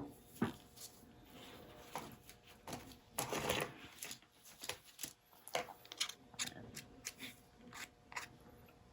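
Irregular light clicks, taps and rustles of small objects such as paint bottles and cups being handled on a work table, with a brief scrape or rustle about three seconds in.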